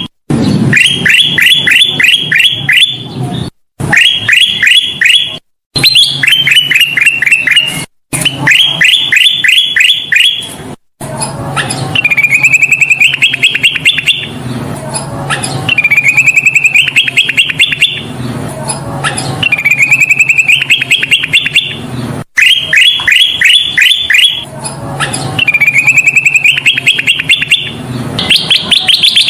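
Kutilang emas, a bulbul, singing loud, rapid trills of short repeated notes. The first phrases fall in pitch, and from the middle on they rise. The recording breaks off abruptly several times between phrases, and a steady low hum sits under the middle part.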